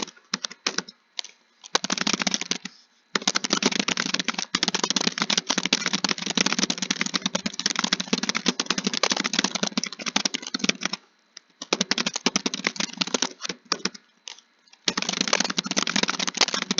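Fast, continuous typing on keys, a dense run of clicks. It breaks off into a few scattered keystrokes just after the start and again for a few seconds about two thirds of the way through, then resumes.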